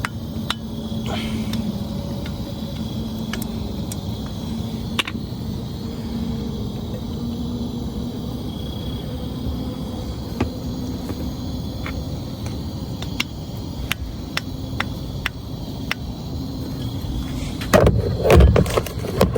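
A steady low rumble with a faint hum, broken by scattered small sharp clicks. A burst of clattering knocks comes near the end.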